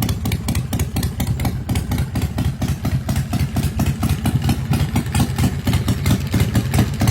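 Motorcycle engine idling with an even, rapid beat of exhaust pulses.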